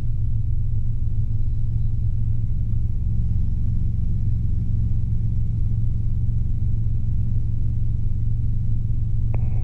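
Robinson R22 helicopter in level flight, its engine and rotor making a steady low drone that is heard in the cockpit.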